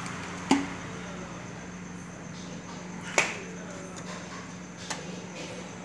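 Three sharp metallic clinks of hand tools against engine parts during timing-chain work, about half a second in, just past three seconds and a fainter one near five seconds, over a steady low hum.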